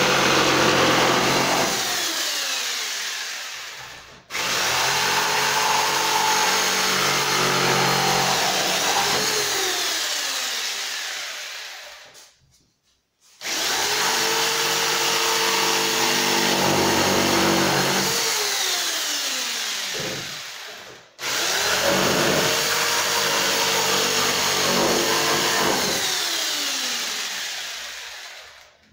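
Einhell Bavaria BPS 600E electric circular saw started three times: each time the motor comes on abruptly at full speed, runs for several seconds, then is switched off and winds down with a falling whine.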